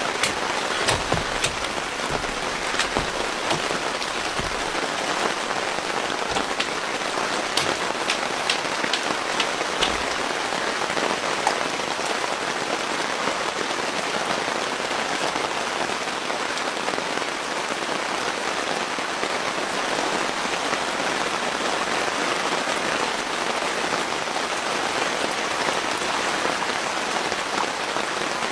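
Steady rain falling, an even hiss with scattered sharper drop impacts in the first ten seconds or so.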